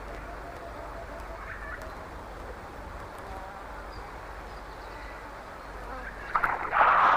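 A bullfrog giving a short, loud, rapidly pulsed croak near the end, over a steady hiss of background noise.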